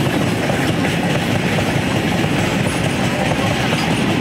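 A train passing on the neighbouring track: a steady, loud running noise of wheels on rail.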